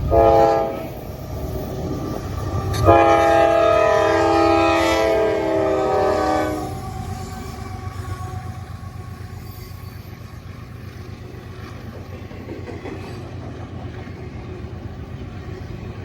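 Diesel locomotive horn sounding a short blast, then a long blast that stops about seven seconds in, the close of a grade-crossing signal. The passing train's steady low rumble and wheel clatter carry on after it.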